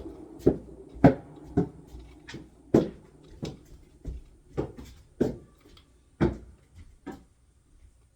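An irregular string of sharp knocks or clatters, about two a second, growing weaker and sparser near the end.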